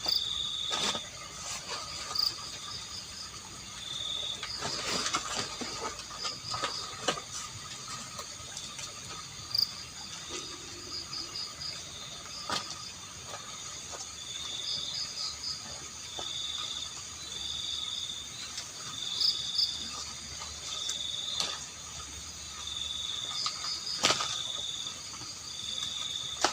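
Insects chirping in short, repeated trills, with a second, faster pulsing call above them. Scattered sharp clicks and rustles come from nearby handling.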